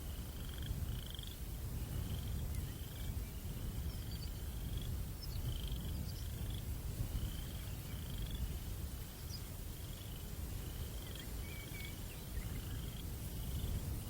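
Night chorus of a calling insect or frog: short, high trills repeating evenly, about three every two seconds, over a low, steady breeze rumble. A few faint higher chirps come in near the middle.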